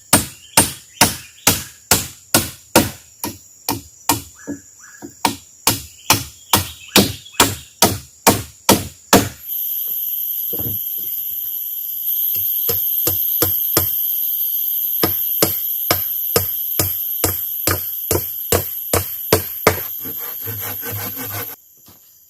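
Repeated blows striking wood, about two a second, steady for the first half and then lighter and quicker toward the end. An insect's steady high buzz starts about halfway through and stops abruptly near the end.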